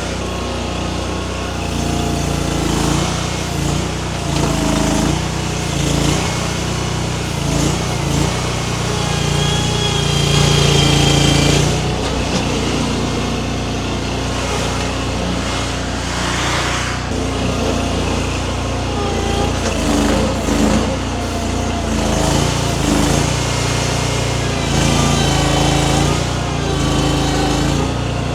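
Baumalight mini skid steer's engine running under changing hydraulic load, its note dipping and rising as the grapple is worked. A higher whine joins for a few seconds near the middle.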